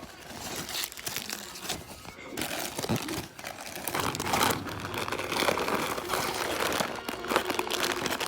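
Plastic snack wrappers crinkling as they are handled, a dense run of crackles that grows louder after about two seconds.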